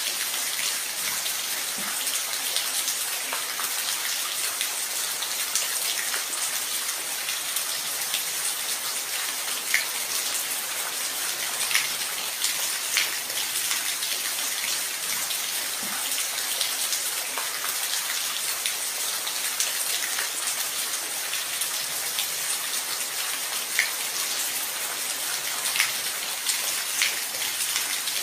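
Steady rain falling, an even hiss with scattered louder individual drops ticking through it.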